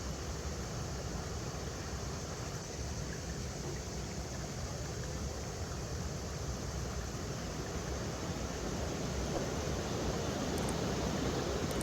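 River water running over rocks: a steady rushing noise that grows slightly louder in the last few seconds.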